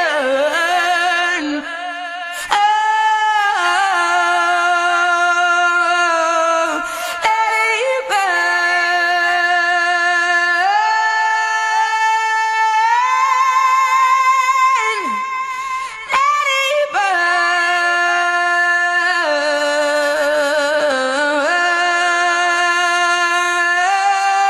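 A woman singing long wordless held notes that step up and down in pitch, with vibrato on some of them and no backing instruments.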